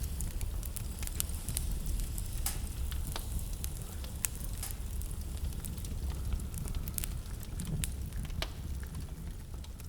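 Wood fire in a fireplace crackling, with irregular sharp pops and ticks scattered throughout, over a steady low rumble.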